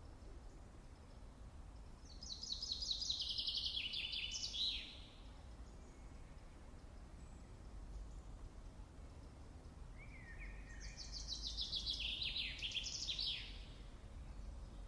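A songbird singing twice, each phrase a fast run of notes that falls in pitch and ends in a short flourish, over a low steady background rumble.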